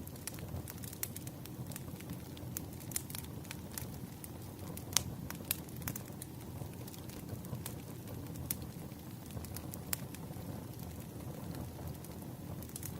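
Wood fire crackling: irregular sharp pops and snaps, one louder pop about five seconds in, over a steady low rush of the flames.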